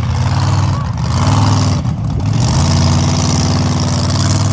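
Monster truck engine running hard under throttle, its pitch swelling and sagging. It dips briefly about two seconds in, then comes back and holds steady.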